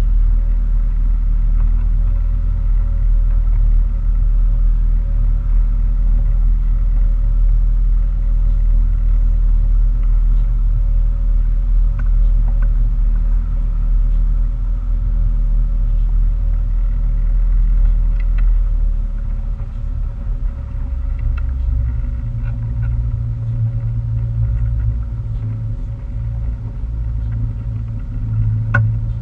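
Motorboat's engine running steadily with a deep rumble and a steady hum above it; about two-thirds through, the low note shifts and the level drops a little.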